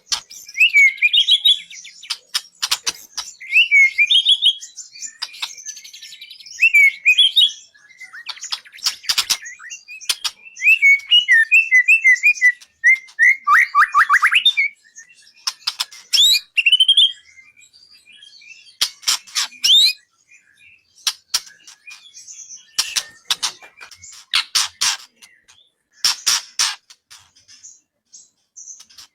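A murai (magpie-robin-type songbird) singing a masteran song: varied clear whistled phrases and fast trills, broken up by harsh chattering notes, in bursts with short pauses.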